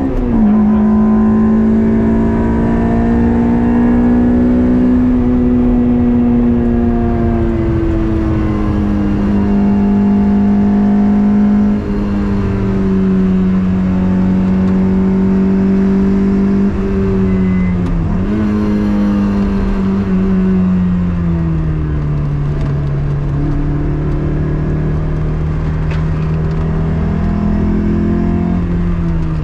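Toyota MR2 Spider's swapped 2ZZ four-cylinder engine running hard on track. Its note slides slowly lower, dipping sharply and recovering about 18 seconds in and again near the end.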